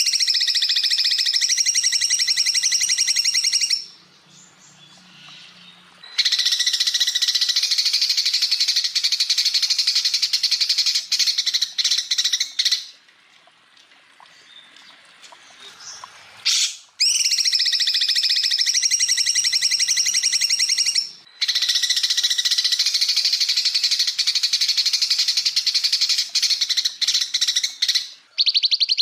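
Cucak ijo (green leafbird) song: long, dense, rapid trilling phrases of about four to seven seconds each, separated by short pauses of a second or two. Four full phrases are heard, and a fifth starts at the very end.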